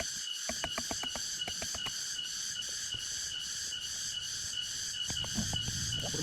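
Jungle insects, crickets or cicadas, chirring in a steady chorus that pulses several times a second, with scattered sharp clicks. A low rumbling noise joins near the end.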